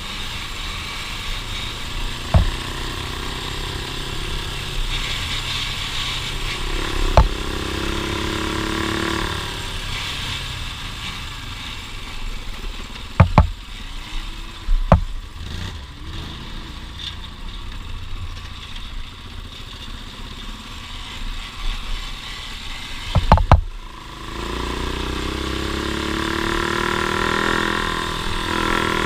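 An off-road vehicle's engine running on the trail. It revs up twice, once about a quarter of the way in and again near the end. Several sharp knocks cut through it.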